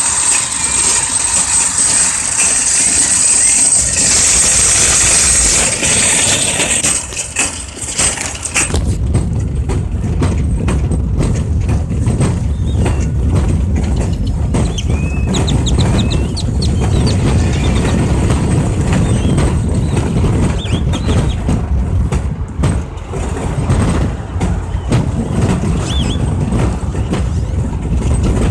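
Dense, continuous chattering of a large mixed flock of grackles and finches for the first eight or nine seconds, cutting off abruptly. After that a steady low rumble takes over, with scattered single bird calls.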